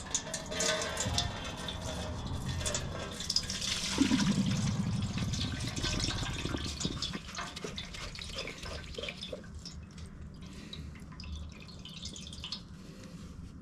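Diesel fuel pouring and trickling out of a tractor's fuel filter into a bowl. The flow swells about four seconds in, then tapers off to scattered drips.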